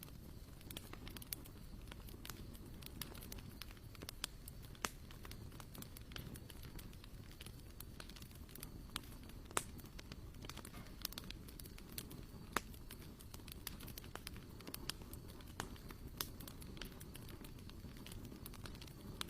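Wood campfire crackling, with irregular sharp pops scattered over a steady low rumble.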